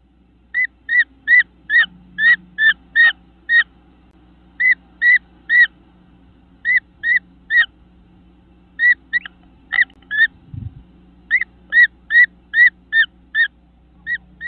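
A bird's short whistled call note, repeated in runs of three to six at about two and a half notes a second, with pauses between runs. A brief low thump comes about ten seconds in.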